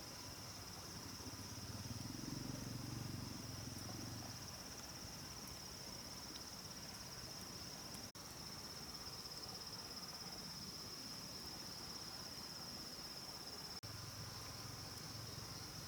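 Rainforest insect chorus: a steady, unbroken high-pitched trilling drone.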